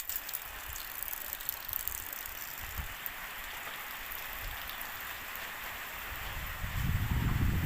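Steady rain falling on surfaces, an even hiss with a few sharper drip ticks near the start. A low rumble builds near the end.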